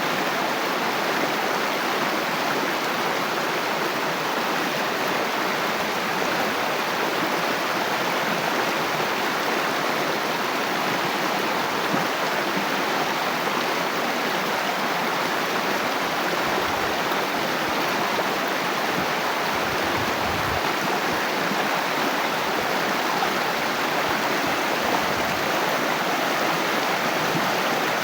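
Water flowing steadily in a stream, an even rushing and splashing, with a few brief low rumbles about two-thirds of the way through.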